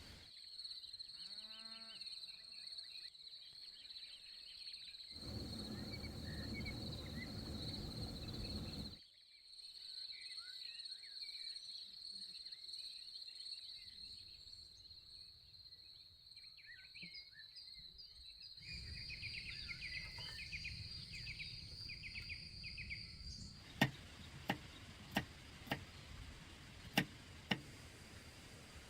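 Rural outdoor ambience: a steady high insect drone with scattered bird chirps, and a cow lowing in the distance about a second in. Near the end come a series of sharp, evenly spaced knocks.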